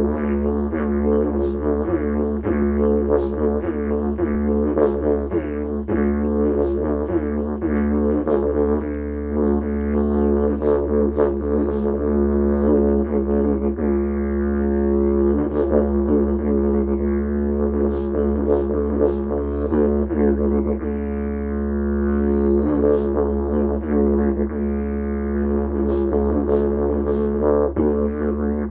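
Didgeridoo playing one unbroken low drone, its upper overtones sweeping up and down.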